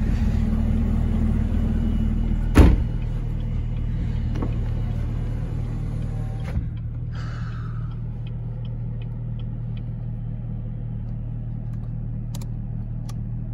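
Supercharged 6.2 L LT4 V8 of a 2019 Chevrolet Camaro ZL1 idling steadily, heard from inside the cabin. A single sharp thump comes about two and a half seconds in, and the engine sounds slightly quieter after it.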